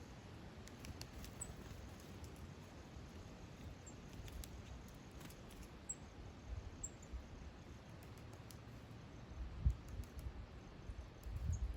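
Faint, very high, short chirps or squeaks of small birds, a few seconds apart, with scattered light clicks over a low rumble. There are a couple of dull low thumps near the end.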